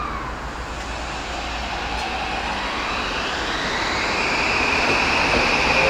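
Toei 5500 series electric train approaching, its motor whine climbing in pitch and then holding steady while the train's rumble grows louder.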